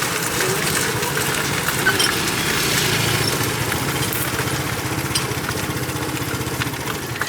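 A tuk-tuk's small engine running steadily with a fast pulsing rumble.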